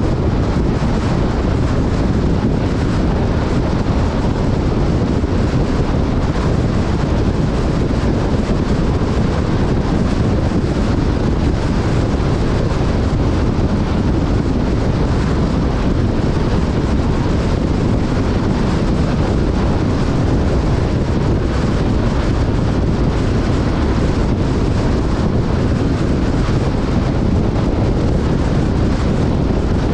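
Wind rushing over a camera microphone with the steady drone of an off-road vehicle on the move, unbroken throughout.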